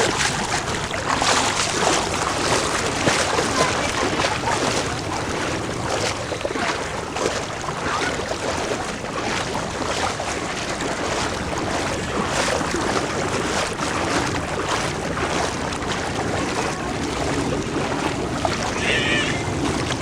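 Floodwater splashing and sloshing in irregular bursts, with wind noise on the microphone.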